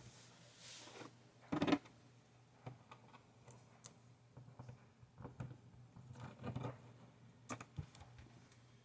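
Faint handling noises at a work table: scattered light taps, clicks and short rustles, the loudest a brief rustle about a second and a half in, over a faint steady low hum.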